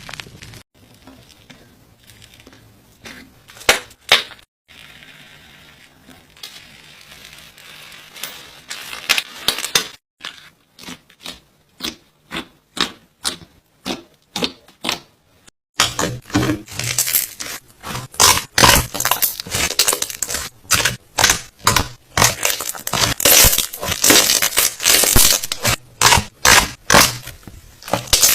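Slime being squeezed and poked by hand, making crackling and popping sounds: scattered pops at first, then a dense, louder run of crackles from a little past halfway.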